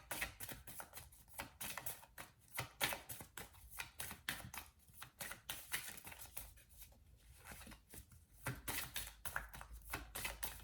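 Tarot cards being shuffled by hand: a quick, irregular run of light card slaps and flicks, easing off briefly about seven seconds in.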